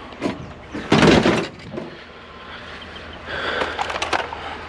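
Hard objects being handled: a click, then a loud clunk and rattle about a second in, followed by scraping and shuffling.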